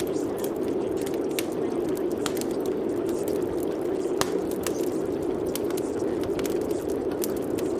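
Steady rain with scattered sharp clicks of drops hitting a surface.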